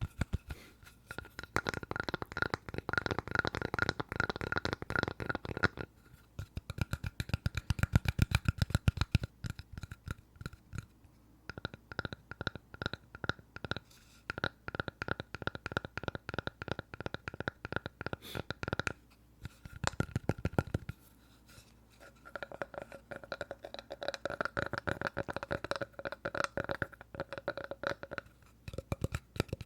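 Fast tapping on a piece of wood, in dense runs of quick clicks broken by a few short pauses.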